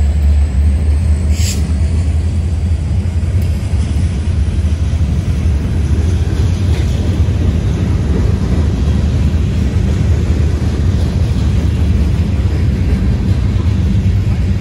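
Steady low rumble of a freight train going by, with a short high squeal about a second and a half in.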